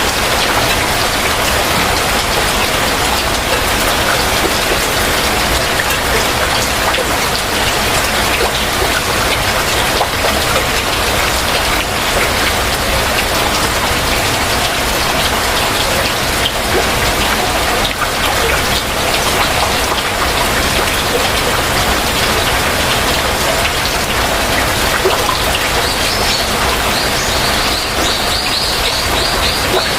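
Heavy rain falling steadily. In the last few seconds a bird gives a quick run of short, high chirps over the rain.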